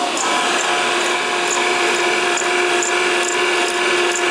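Grinding wheel cutting a workpiece turning in a spin jig: a steady machine whine, with a short high scratch repeating about twice a second.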